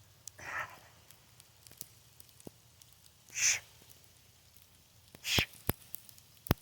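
Three short, forceful hissing exhales about two seconds apart, a lifter breathing hard while straining at a heavy kettlebell press. A few sharp clicks come near the end.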